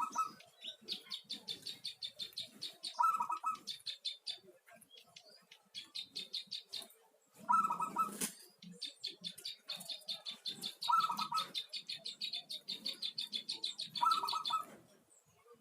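Zebra dove (perkutut) cooing in five short phrases, one every three to four seconds, with long runs of rapid high chirping between the phrases.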